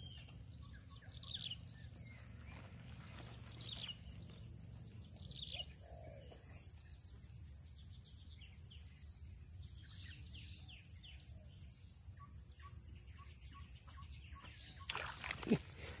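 Outdoor countryside ambience: birds giving short, falling chirps again and again over a steady high-pitched buzz. A couple of brief knocks come near the end.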